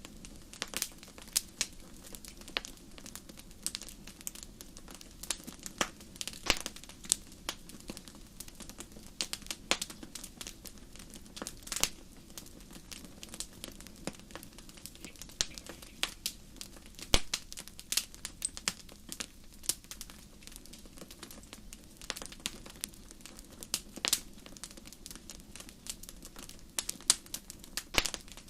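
Wood fire crackling: irregular sharp pops and snaps, several a second and some louder than others, over a low steady rush.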